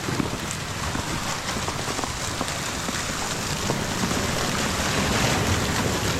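Falling snow pattering steadily, an even hiss dotted with many small irregular ticks.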